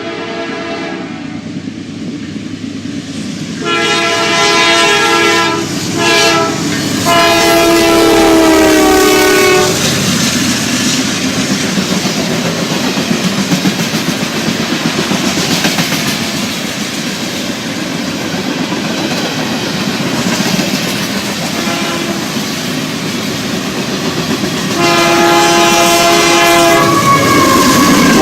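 Diesel locomotive air horn sounding a multi-tone chord in a long, short, long pattern of blasts, the last one dropping slightly in pitch. Then comes the steady rumble and clickety-clack of a passing train. Near the end the horn sounds again with another long blast.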